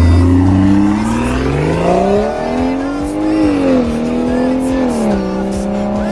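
BMW G30 540i's turbocharged straight-six with a modified exhaust, pulling hard: the note climbs for about three seconds, falls back at a gear change, then dips once more and settles to a steady drone.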